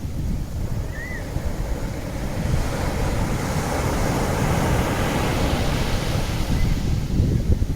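Wind buffeting the microphone, a steady rushing noise with a heavy low flutter. A faint, brief chirp comes about a second in.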